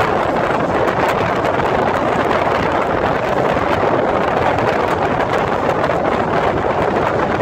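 Steady running noise of an InterCity 125 (HST) train heard inside a passenger coach: an even, unbroken rumble and rush of wheels on rails at speed.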